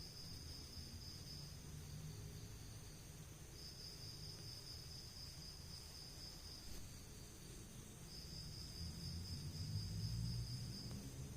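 A cricket trilling in long bouts of two to three seconds with short pauses, a high, steady buzzing tone. A low rumble runs underneath and grows louder near the end.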